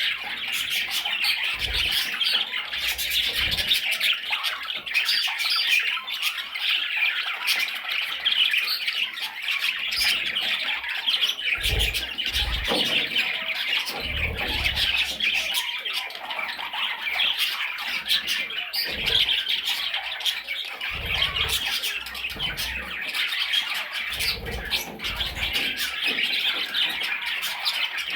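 Budgerigar chattering and warbling continuously in a dense stream of squawks and chirps, with occasional low thumps.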